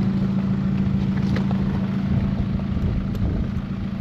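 A four-wheel-drive's engine idling steadily.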